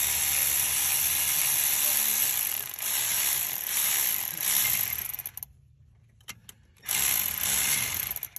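A ratchet wrench clicking fast in a long run of about five seconds, then a few single clicks, then a second, shorter run near the end.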